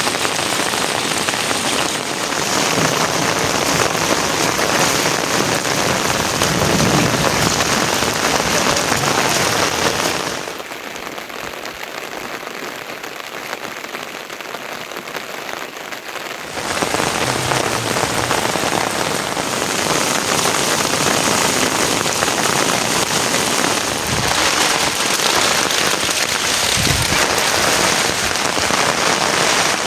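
Steady rain falling and pattering on surfaces, an even rush of noise that turns softer for about six seconds in the middle before coming back.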